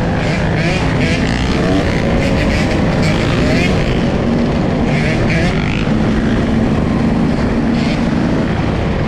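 Dirt bike engine running at a steady level during a ride, with no revving up or down.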